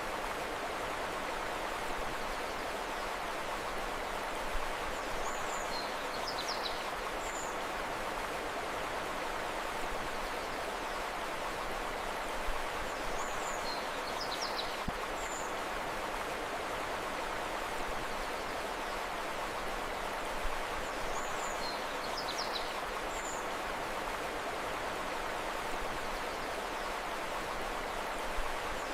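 Steady rush of flowing river water, with a short group of high bird chirps that comes back about every eight seconds.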